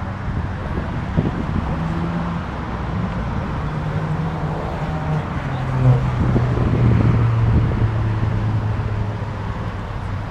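Car engine and exhaust running, its note shifting in pitch a few times and getting louder about six seconds in, over steady traffic noise.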